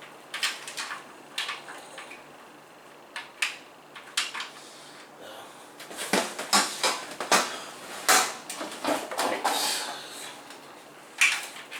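Clicks, knocks and rattles of computer case parts being handled and fitted, a few at first and then a busy stretch of clatter from about six to ten seconds in.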